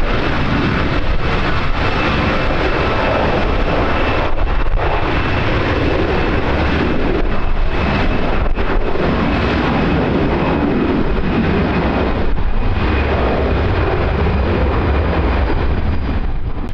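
Aircraft engines running loud and steady, with a thin high whine over a deep rumble, and wind buffeting the microphone.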